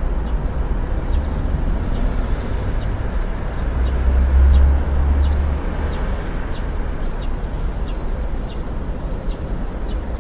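Steady rain with a deep low rumble that swells about four seconds in and then eases, and faint short high ticks dotted throughout.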